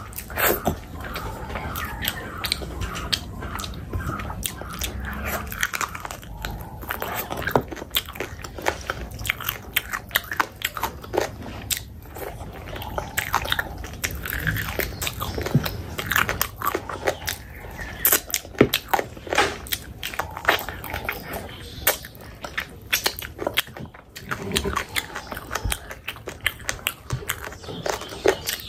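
Close-miked eating of curry: steady wet chewing and biting, with many sharp mouth clicks and smacks at an irregular pace.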